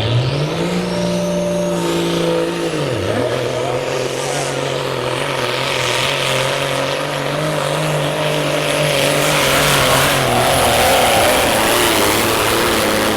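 Cummins-powered Peterbilt semi truck's diesel engine under full load pulling the sled. The revs climb at the start, drop sharply about three seconds in, then hold steady and high.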